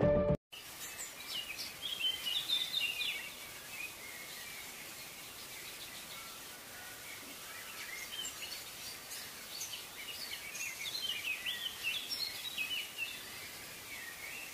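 Birds chirping in short, high calls over a faint, steady outdoor background hiss, busiest a couple of seconds in and again in the later part.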